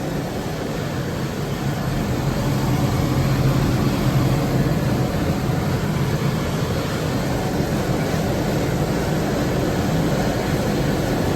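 Large oil-fired boiler burner firing: a steady rush of burner fan and flame over a low hum.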